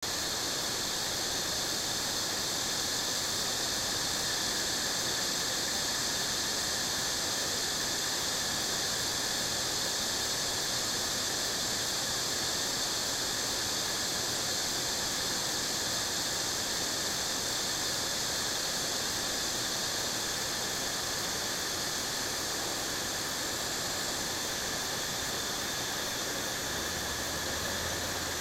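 Steady vehicle travel noise, an even hiss with a high whine over it, as from a ride across a bridge; a low hum comes in near the end.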